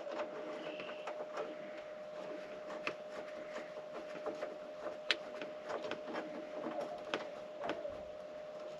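Scattered small clicks and taps of a wrench and metal bolts being handled, with one sharper click about five seconds in, over a faint steady hum.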